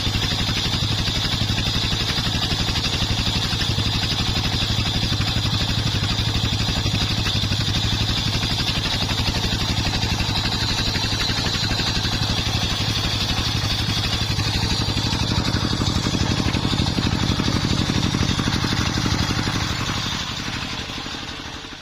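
Engine of a homemade circular sawmill rig running steadily, with a fast even firing pulse and a high steady whine from the spinning saw. The sound grows louder and fuller about fifteen seconds in, then fades away over the last two seconds.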